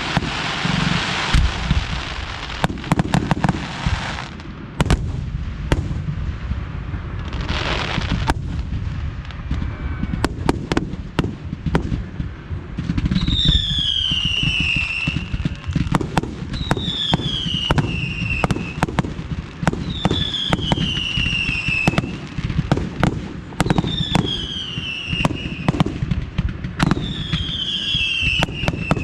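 Fireworks display: a steady rushing hiss for the first four seconds and again briefly near eight seconds, with many sharp bangs and pops throughout. From about halfway, a falling whistle repeats roughly every three and a half seconds among the bangs.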